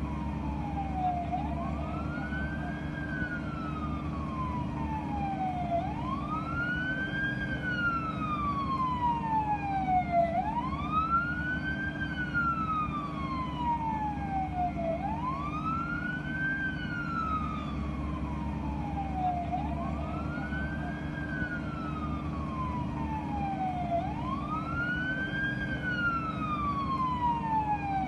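Emergency vehicle siren wailing in a repeating cycle: a quick rise in pitch, then a slow fall, about every four and a half seconds, over a steady low engine rumble.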